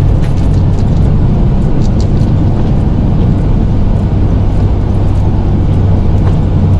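Plow truck's engine running steadily under load with a constant low drone while the plow pushes a large pile of snow.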